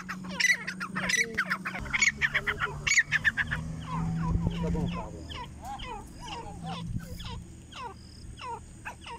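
Grey francolins calling: a fast stream of short, overlapping chirping notes, denser and higher for the first few seconds, then lower, more spaced calls over a faint low hum.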